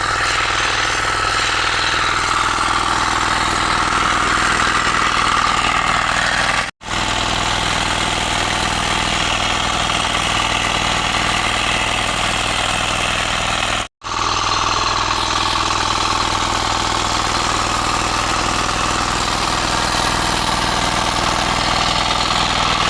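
A 9.5 hp power weeder's engine running steadily. The sound cuts out for an instant twice, about a third and two-thirds of the way through.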